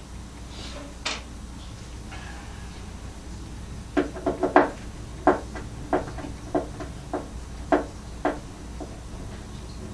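Hands and tools working inside a speaker cabinet: a faint click about a second in, then about a dozen sharp, irregular knocks and clicks over some four seconds.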